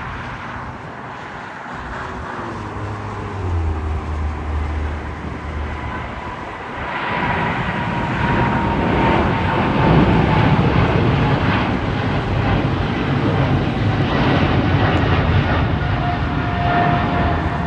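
Boeing 777-300ER's GE90 turbofan engines at takeoff thrust, getting much louder about seven seconds in and staying loud, with a steady whine that slowly drops in pitch as the jet passes.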